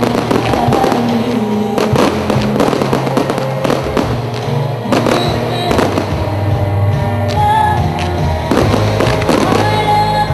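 Aerial fireworks going off in a rapid series of bangs and crackles, over music with sustained notes.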